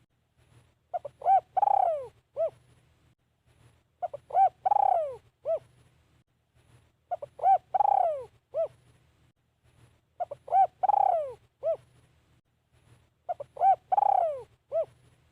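Spotted dove cooing as a decoy bird calling to lure wild doves. The same phrase comes five times, about every three seconds: a couple of short coos, a longer coo that falls in pitch, then one short coo.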